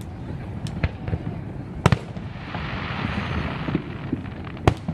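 Fireworks going off: a few sharp bangs, the loudest just under two seconds in and another near the end, with a spell of hissing crackle between them.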